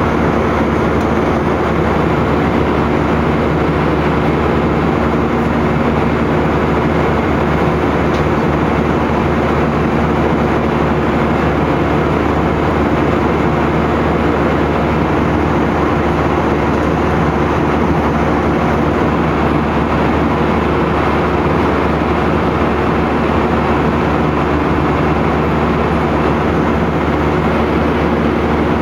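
Airliner cabin noise: a loud, steady rush of engine and airflow with a low hum running through it.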